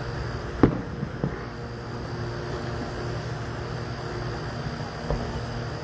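Fireworks shells bursting in the distance: one sharp bang about half a second in, a fainter one just after, and another near the end, over a steady low hum.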